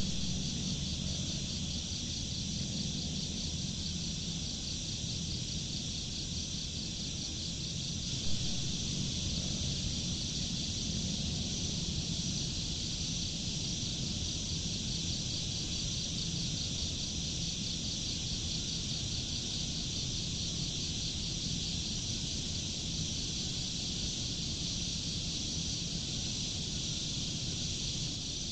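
A dense, steady chorus of insects trilling high and fast, over a low, even rumble. There is a single short knock about eight seconds in.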